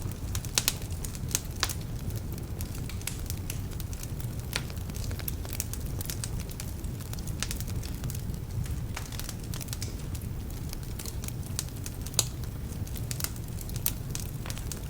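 Wood fire burning in a fireplace: a steady low rumble of the flames with irregular sharp crackles and pops from the logs, some of them damp.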